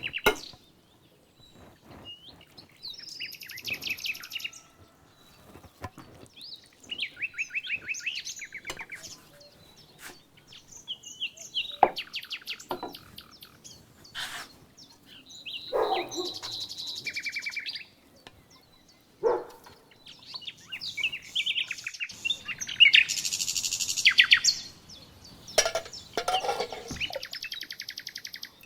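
Wild birds singing, with repeated fast high trills and chirps coming in short phrases, plus a few short sharper calls or clicks.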